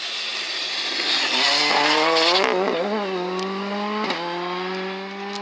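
Rally car engine revving hard under acceleration, its pitch climbing and then dropping sharply at each gear change, three shifts in a row.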